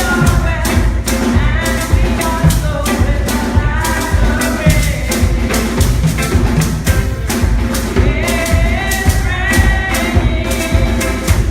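Live worship band music with a steady drum and tambourine beat and singing voices.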